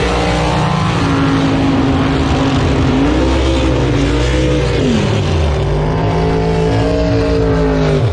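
Drag race car engines running loud, several at once, their pitch climbing, dipping and climbing again as they are revved.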